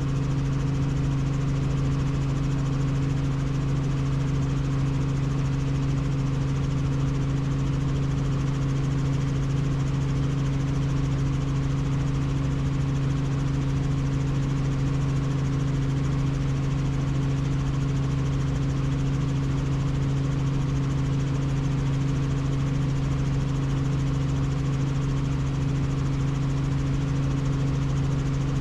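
Helicopter in flight: the steady drone of its engine and rotors, a constant-pitch hum that does not change.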